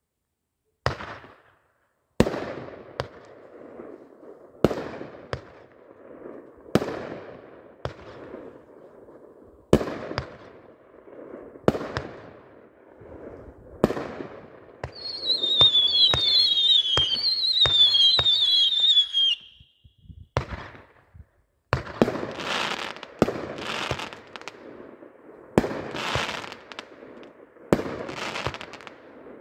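Raccoon Fireworks 'Football Maniac' firework cake firing: single sharp shots about every two seconds, each with a fading rush after it. Partway through, several whistling shots glide down in pitch together for about four seconds. Near the end the shots come faster.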